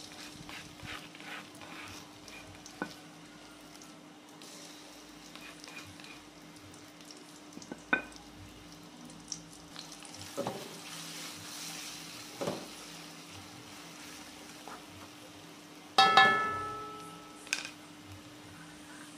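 Ground spice paste sizzling in oil in a metal wok over low heat while being stirred with a spatula, with scattered clicks and scrapes of the spatula on the pan. Near the end the spatula strikes the wok with a loud ringing clang that fades over about a second.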